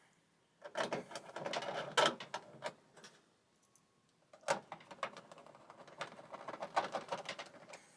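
Irregular clicking, knocking and rattling of dryer parts being handled and fitted during reassembly, in two spells with a quiet gap of about a second and a half in the middle.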